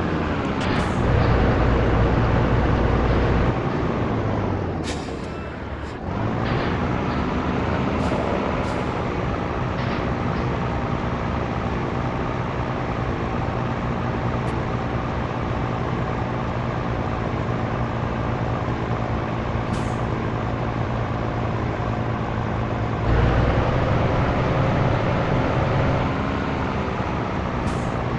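Scania T113 truck's diesel engine running under way. Its note drops and falls in pitch about four to six seconds in, then holds steady, and it pulls louder with rising pitch for a few seconds near the end. Short sharp air hisses come several times, typical of the truck's air brakes or air system.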